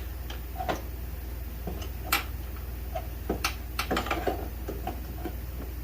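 Scattered metal clicks and knocks of bolts and mounting hardware being handled while fitting a winch mount, sharpest about two and three and a half seconds in, over a steady low hum.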